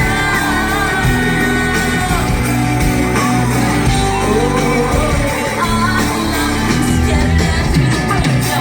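Live pop-rock concert music from a band with a singing voice, with shouts from the crowd mixed in.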